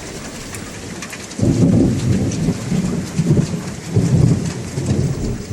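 Heavy rain falling steadily, a constant hiss of drops. About a second and a half in, a rolling rumble of thunder starts and goes on, rising and falling, for about four seconds.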